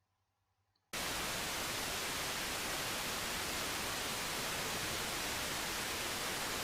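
FM receiver static: steady hiss from a software-defined radio tuned to 95.3 MHz, with no station audible through it. It starts suddenly about a second in.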